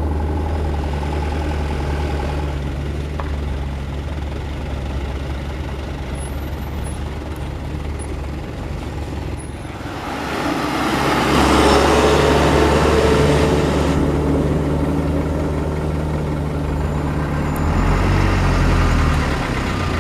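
Diesel engine of a loaded dump truck running at steady low revs. About ten seconds in, a louder rushing noise swells up over the engine, and near the end the engine note changes pitch.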